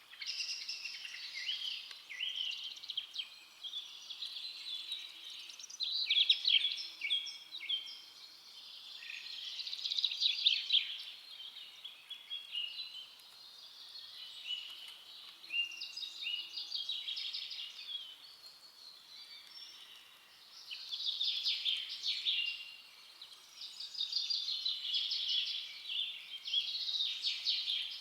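A chorus of many small forest birds chirping and singing over one another, busy throughout and swelling and fading every few seconds.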